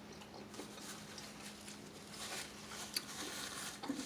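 Faint scattered light clicks and rustling of spilled food being picked up and cleaned off a hot plate, with one sharper click about three seconds in, over a faint steady hum.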